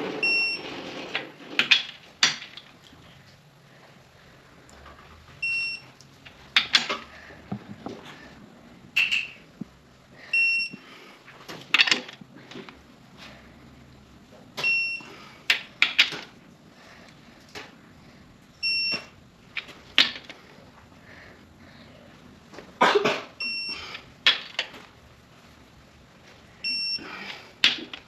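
Torque wrench ratcheting and clicking as bolts on a 5.9 Cummins engine block are pulled up to 175 foot-pounds, in a series of sharp clacks. A short high beep repeats about every four to five seconds.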